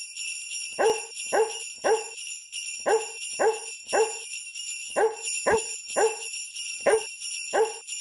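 Novelty Christmas tune made of dog barks over steady jingling sleigh bells. The barks are evenly paced on one pitch, in groups of three.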